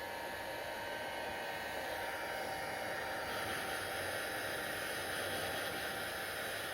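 Hair dryer running steadily: a continuous rush of air with a faint steady tone in it, the hiss turning a little brighter about two to three seconds in.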